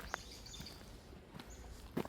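Birds chirping, short high calls in the first second and once more near the end, over faint outdoor background noise, with a couple of soft taps from steps.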